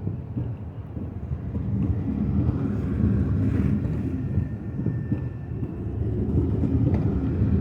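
SJ high-speed passenger train moving off from the station with a steady low rumble, a faint thin whine showing briefly around the middle.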